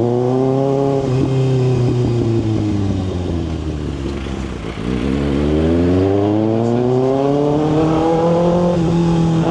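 Kawasaki ZX-6R inline-four engine heard from the rider's helmet mic: the revs fall away for about four seconds as the bike rolls off, then climb steadily for about three seconds as it accelerates again, levelling off near the end.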